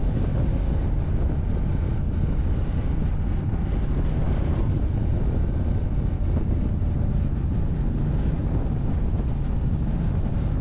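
Ducati Diavel 1260 S's 1262 cc Testastretta V-twin engine running steadily at a cruise of about 60 km/h, with wind noise on the microphone.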